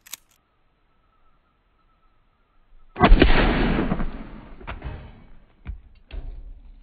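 A single 12-gauge shotgun blast from an SDS Imports Tokarev TX3 12 HD pump shotgun firing a birdshot load, about three seconds in, echoing and dying away over about two seconds. A few short, sharp knocks follow near the end.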